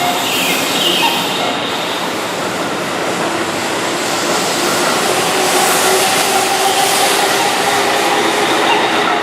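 Keihan 6000-series electric commuter train running on the rails, a steady loud rumble and hiss of wheels and motors, with a faint steady whine coming up about halfway through.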